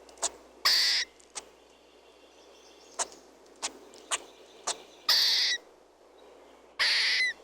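An animal calling: three loud, harsh, high calls about half a second each, with short sharp chirps in between.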